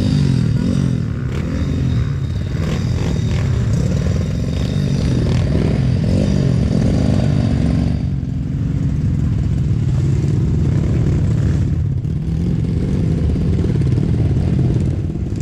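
Honda CRF150L dirt bike's single-cylinder engine running while ridden, the revs rising and falling during the first few seconds and then holding steadier, with some rattling in the first half.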